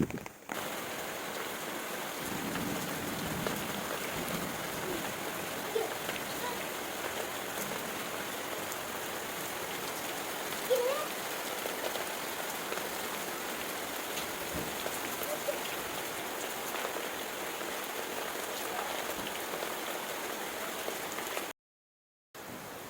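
Heavy rain falling, a steady even hiss of rain on surfaces, broken by a second of silence near the end.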